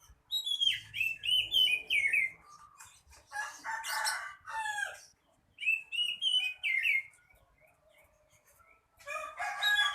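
Oriental magpie-robin (kacer) singing loud bursts of rapid, varied whistled and warbled phrases: four bursts with short pauses between them. This active, full song is what keepers call gacor.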